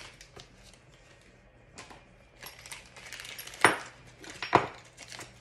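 Small metal parts and screws of a tumbler turner kit being handled, clinking and knocking, with two sharp, louder clacks past the middle.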